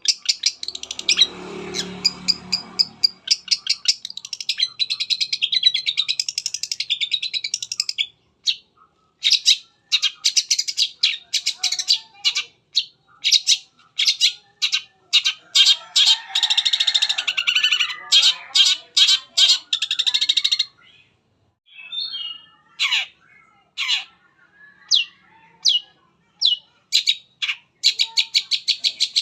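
Long-tailed shrike (cendet) singing fast, high chirping runs of song full of mimicked calls, which break off briefly about two-thirds of the way through and then return as scattered calls. A brief low rumble sounds under the song about a second in.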